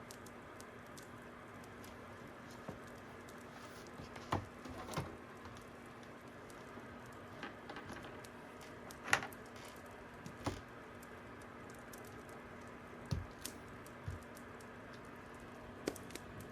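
Fire crackling: sharp pops and snaps at irregular intervals, about a dozen, over a steady low hiss.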